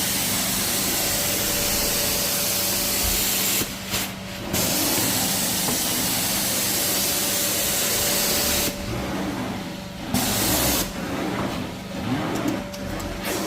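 Carpet-cleaning extraction wand spraying cleaning solution at high pressure, about 600 psi, with a steady machine hum under the hiss. The spray cuts out briefly about four seconds in and again for about two seconds near nine seconds, then goes on and off in short strokes near the end.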